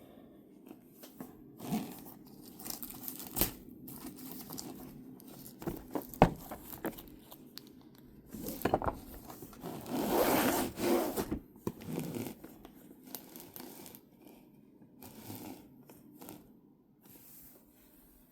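Plastic shrink-wrap being torn and crinkled off a cardboard Pokémon card collection box, with scraping and a couple of sharp clicks; the longest, loudest stretch of tearing comes about ten seconds in.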